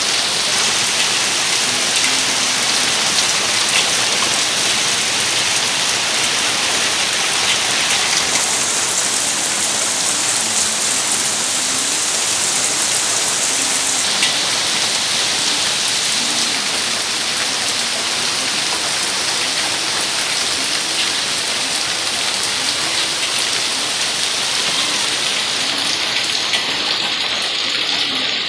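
Steady heavy rain falling, a dense even hiss with scattered ticks of individual drops.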